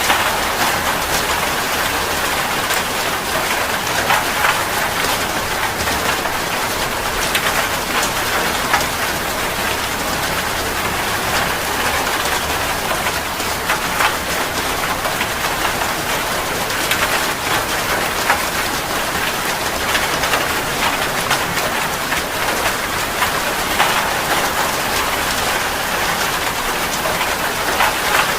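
Steady rain falling on a surface: an even hiss dotted with many sharp drop splashes.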